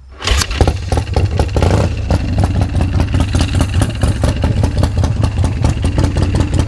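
Motorcycle engine starting on the choke from cold: it catches about a third of a second in, runs a little unevenly for a moment, then settles into a steady idle with a regular beat of firing pulses.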